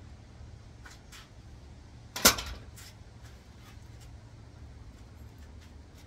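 A single sharp knock a little over two seconds in, the loudest thing here, among a few light clicks, from parts being handled during a manual transmission teardown.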